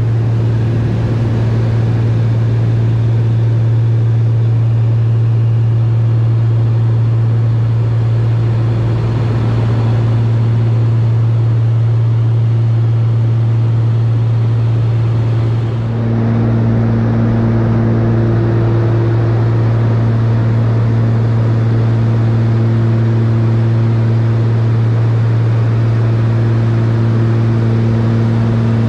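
Cockpit drone of a Cessna 402's twin piston engines and propellers in flight, a loud steady low hum with fainter overtones. The sound dips briefly about halfway through and then carries on.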